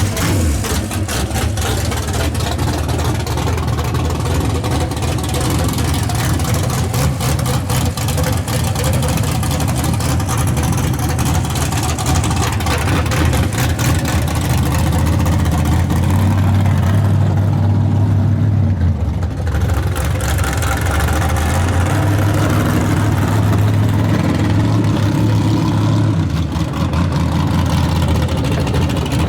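Carbureted race engine of an S10 drag truck running loud with its exhaust baffles off, idling and revved a little. It is being tested for a crackling, breaking-up miss after new spark plugs, plug wires and raised fuel pressure.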